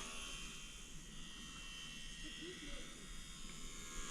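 Faint, steady buzz of a small RC plane's electric motor and propeller in flight, swelling and fading a little as it flies around.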